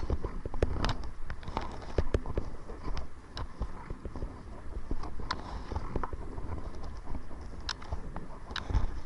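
Kayak paddling: irregular paddle splashes and knocks against the hull, over a low rumble of wind on the microphone.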